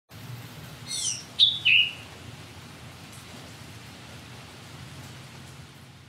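A few short bird calls, sweeping downward in pitch and bunched together about a second in, over a steady low background hum and hiss.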